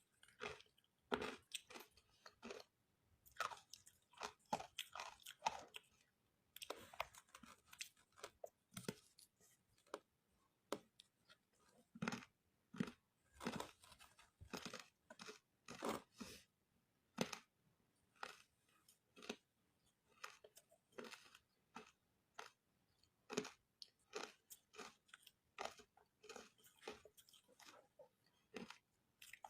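Person chewing matcha ice close to the microphone: a steady run of short, crisp crunches, irregularly spaced, several a second in clusters.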